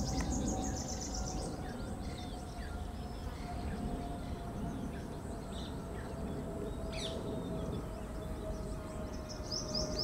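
Wetland ambience with several birds calling: a rapid high trill at the start and again near the end, scattered short chirps, and one sharp call about seven seconds in, over a steady low background rumble.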